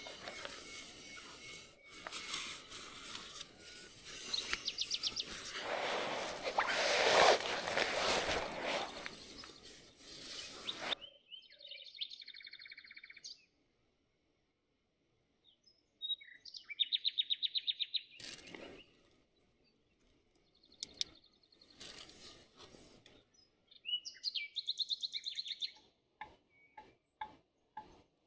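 Small birds singing short, rapid trills of quickly repeated high notes, four or five times in the second half, with near silence between them. Before that there is a stretch of steady rustling noise with a few knocks, which stops suddenly about eleven seconds in.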